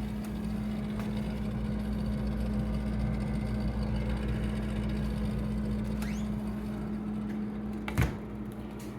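Vintage Kenmore refrigerator running with a steady low hum. Near the end there is a single knock, after which the hum drops away and the sound goes quieter.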